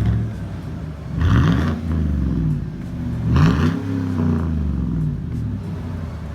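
Chevrolet Tahoe V8 with its muffler and resonator deleted (straight-piped), revved twice from idle: two loud rises in pitch that fall back to a deep, steady idle.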